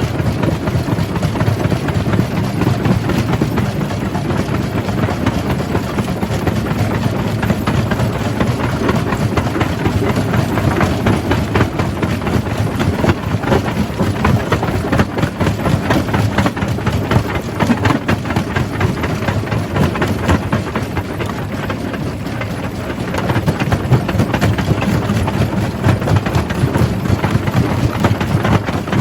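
Jaw crusher running and crushing rock: a steady heavy rumble under a dense, continuous clatter of stone. It eases a little about three-quarters of the way through.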